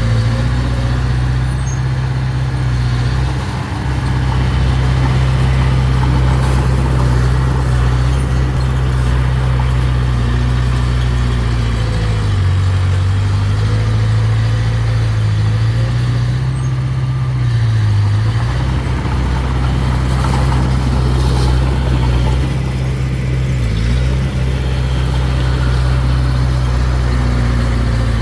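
A mini bulldozer's engine running steadily. Its pitch dips briefly twice, once around the middle and again a few seconds later.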